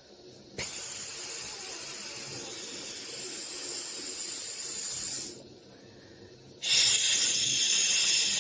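White noise: a bright, even hiss that starts about half a second in, fades out about five seconds in, and comes back after a pause of about a second and a half.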